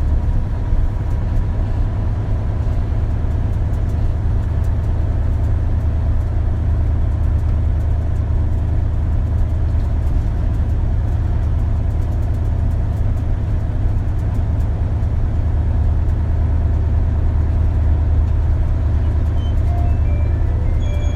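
Isuzu Erga (KL-LV280L1) city bus under way, heard from inside the cabin: a steady low engine and road drone that holds even throughout.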